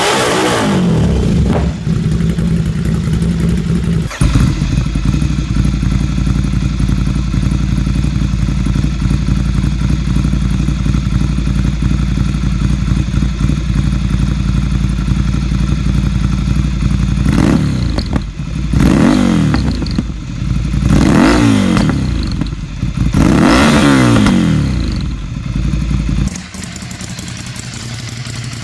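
Ducati Scrambler 800's air-cooled 803 cc L-twin: a rev dies away at the start, then the engine idles steadily. About two-thirds of the way through, the throttle is blipped four times, each rev rising and falling back to idle. Near the end the sound drops to a quieter idle.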